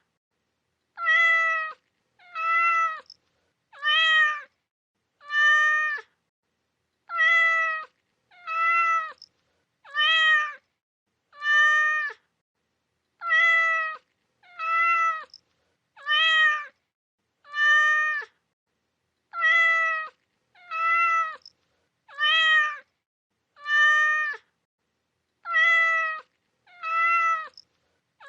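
A cat's meow repeated over and over, about one every second and a half, each call short, pitched and nearly identical to the last, with silence in between.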